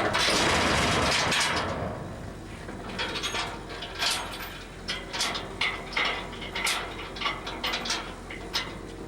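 A loud rushing noise for about the first two seconds, then a string of irregular sharp metallic clicks and clanks from trailer hardware being handled.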